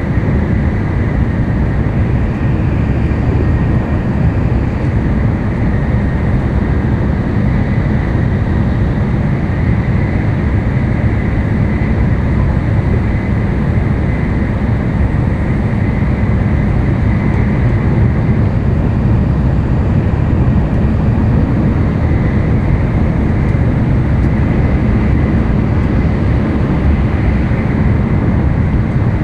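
N700-series Tokaido Shinkansen running at speed, heard inside the passenger car: a steady, even rumble of running noise with a faint high whine over it.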